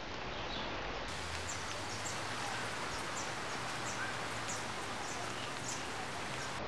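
Steady outdoor background hiss with small birds chirping. From about a second in, short high chirps repeat every half second or so.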